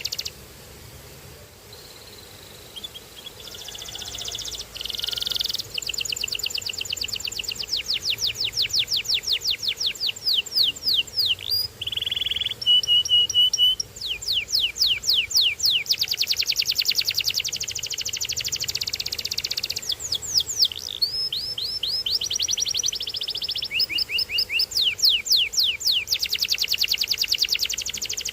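Domestic canary singing a long, varied song of rapid high trills, each phrase a fast run of repeated sweeping notes, with a short flat whistled note about halfway through and brief pauses between phrases.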